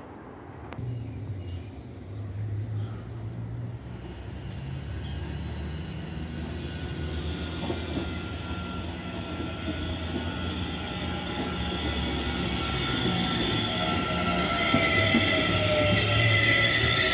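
Electric multiple-unit commuter train approaching along the track, its rumble growing steadily louder as it nears. High steady squealing tones build up, and a whine falls in pitch in the last few seconds.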